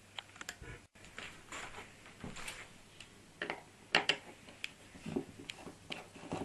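Scattered clicks, knocks and short scrapes of a small mains LED floodlight being handled and taken apart by hand.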